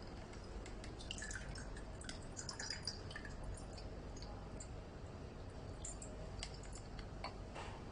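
Orange juice trickling and dripping from a juice dispenser's tap into a cup, heard as scattered small splashes and ticks.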